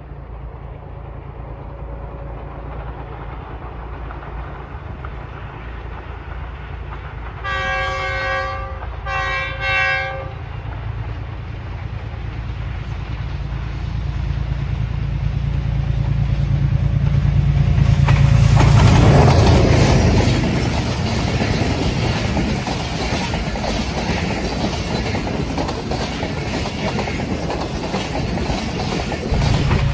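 GU20-class diesel locomotive sounding two horn blasts about eight and nine and a half seconds in, each about a second long. Its engine then grows louder as it approaches and passes, loudest just past the middle. The passenger coaches follow, clattering over the rail joints.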